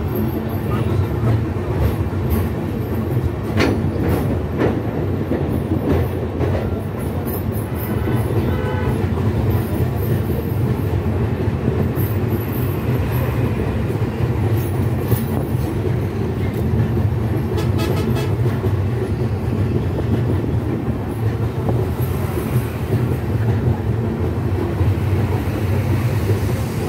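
Ekota Express passenger train running along the track, heard from an open door or window of a coach: a steady low rumble of wheels on rail with a few sharp clicks.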